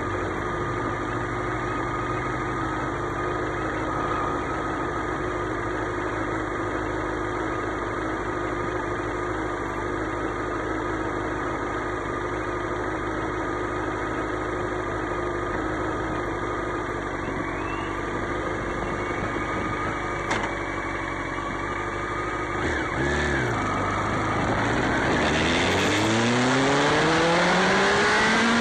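Motorcycle engine idling steadily, then a short blip of the throttle a little over twenty seconds in, followed by a steady rise in revs as it pulls away and accelerates.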